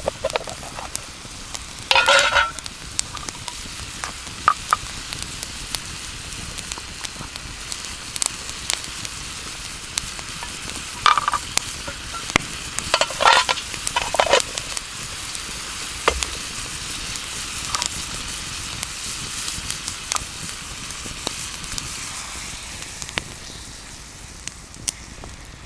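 Food sizzling in a pan over a campfire: a steady frying hiss full of small crackles, with a few louder bursts about two, eleven and thirteen to fourteen seconds in.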